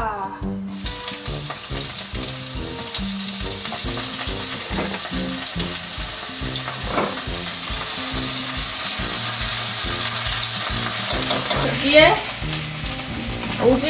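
Sliced green onions sizzling in hot oil in a frying pan while being stirred with a silicone spatula. The sizzle starts suddenly under a second in as they go into the pan, holds steady, and drops off abruptly near the end.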